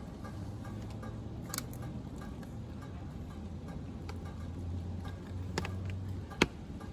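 Rain falling: scattered, irregular drop taps over a steady low hiss, with one sharper tap about six and a half seconds in.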